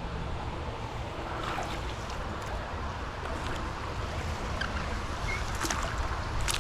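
Steady outdoor rumble of wind on the microphone mixed with flowing creek water, with a few faint clicks near the end.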